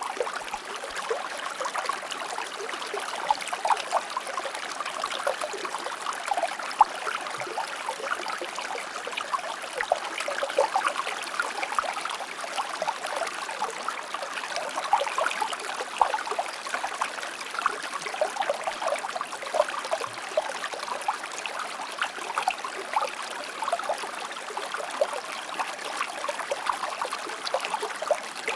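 A shallow river or stream flowing and babbling steadily, with constant small splashes and gurgles.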